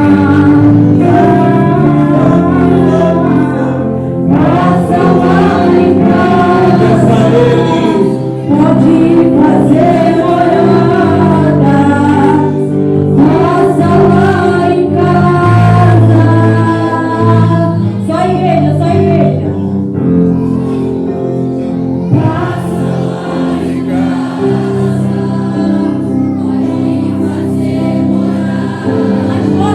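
Church worship music: a group of singers sings a slow, solemn praise song over sustained instrumental chords.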